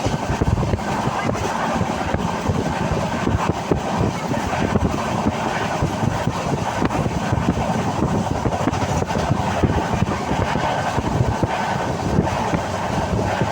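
Passenger train running at speed: a steady rumble of wheels on the rails with frequent small knocks, and wind on the microphone.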